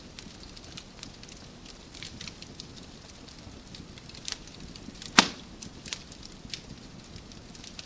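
Wood fire crackling in a fireplace: a steady run of small pops and ticks over a low hiss, with one loud snap about five seconds in.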